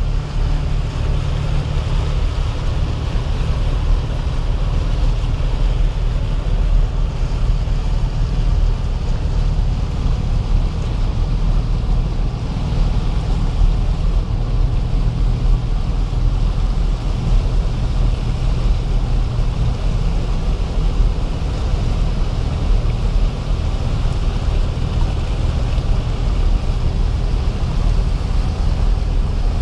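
Nissan Patrol Y60's engine running steadily, heard from inside the cabin as a low drone, over a steady rush of floodwater around the vehicle as it drives through deep water.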